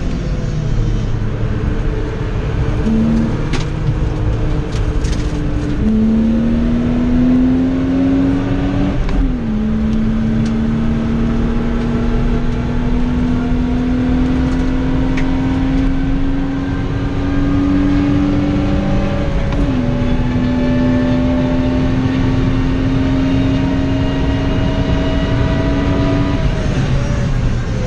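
BMW 323ti's 2.5-litre straight-six, heard from inside the cabin, accelerating hard on track. The revs climb, drop sharply at upshifts about nine and twenty seconds in, and fall away near the end as it lifts off. A steady low road and tyre rumble runs underneath.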